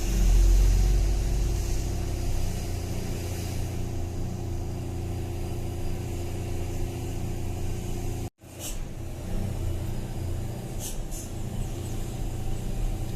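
Vehicle engine running steadily on the move, a low drone, louder for the first second or so. The sound cuts out for an instant about eight seconds in.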